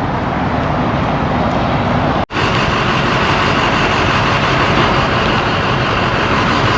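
Steady rushing wind and road noise from a motorcycle riding on a rain-soaked road. The sound cuts out for an instant a little over two seconds in.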